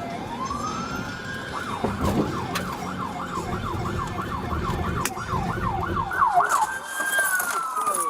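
Police car siren: a slow wail rises, then switches about two seconds in to a fast yelp of about three sweeps a second, then returns to a long wail that falls away near the end. Low engine and road rumble runs under it and drops off about seven seconds in.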